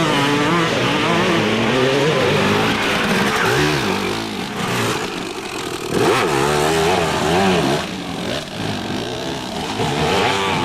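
Several off-road dirt bikes racing past, their engines revving up and down as the riders work the throttle and shift, with one bike passing loudest about six seconds in.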